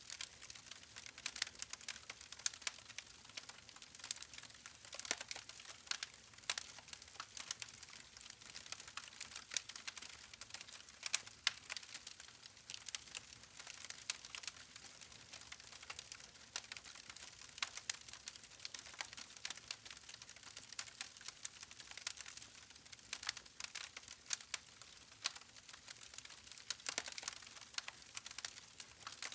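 Wood campfire crackling: irregular sharp pops and snaps from the burning logs, several a second, over a soft hiss.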